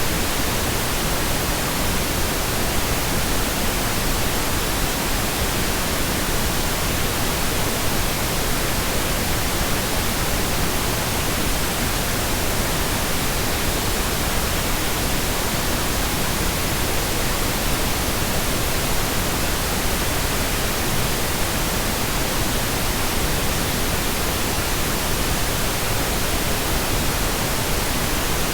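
Synthetic pink noise: a steady, even hiss spread across the whole audible range, unchanging throughout.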